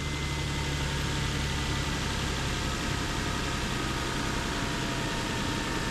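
Car engine idling steadily under the open hood, with an even hiss and a faint thin whine over it, while a can of A/C stop leak is let into the low-pressure side of the air-conditioning system.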